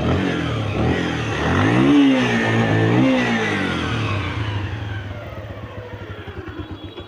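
Bajaj Pulsar 150's single-cylinder four-stroke engine revved twice in quick succession, each rev rising and falling back, then settling to a steady idle that grows quieter toward the end. The engine is being run to check how it sounds.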